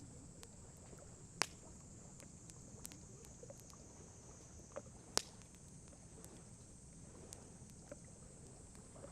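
Wood campfire crackling: two sharp loud pops, about a second and a half in and about five seconds in, and scattered small ticks over a steady low hiss.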